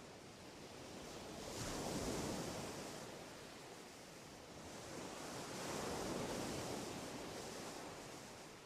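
A rushing noise with no clear tone swells up twice, about four seconds apart, like surf breaking or gusts of wind; no bird song stands out above it.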